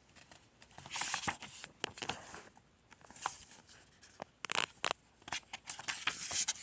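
Paper rustling and crinkling, with scattered small taps and clicks, as a picture book's pages are handled and turned.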